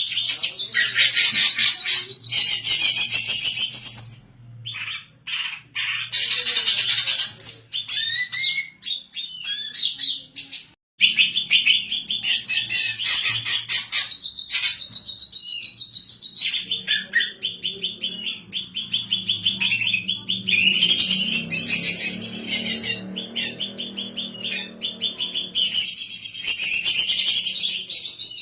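Female cucak ijo (leafbird) singing almost without pause: long runs of fast, high chattering and warbling notes, broken by short gaps about four and eleven seconds in.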